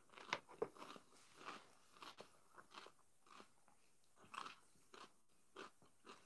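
A person chewing a crisp raw vegetable close to a clip-on microphone: a run of faint, irregular crunches about one or two a second, the sharpest in the first second.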